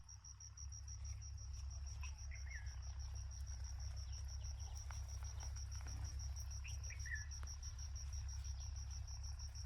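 Faint insect chirping, an even run of high pulses at one pitch, about five a second, with a few short faint chirps and a low steady hum underneath.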